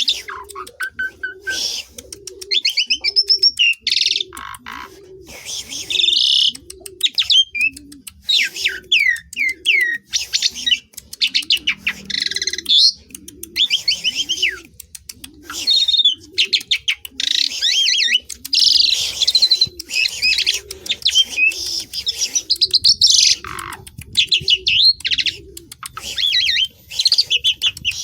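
Asian pied starling (jalak suren) singing loudly in a fast, varied chatter of whistles, rasping notes and slurred glides. Underneath, a low hooting call repeats steadily about one and a half times a second.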